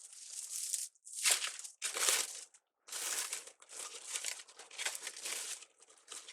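Stiff wreath ribbon crinkling as it is handled and looped into a bow. It comes as a run of rustling bursts with brief pauses, loudest about a second and two seconds in.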